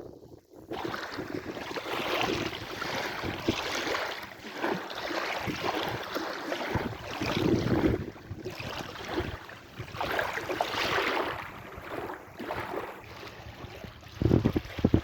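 Sea waves washing in and drawing back in swells every few seconds, with wind rumbling on the microphone, heaviest near the end.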